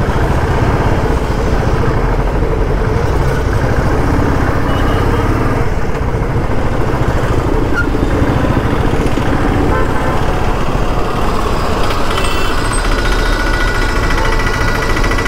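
Royal Enfield Bullet's single-cylinder engine running at low speed in stop-and-go city traffic, heard from the rider's seat under a dense wash of surrounding traffic noise. From about twelve seconds in, a steady high-pitched tone joins the mix.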